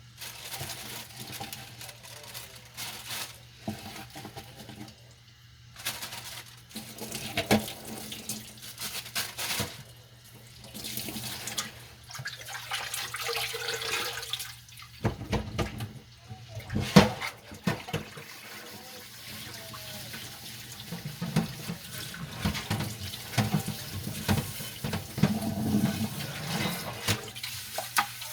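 Dishes being washed by hand at a kitchen sink: tap water running, with repeated clinks and knocks of dishes against each other and the sink.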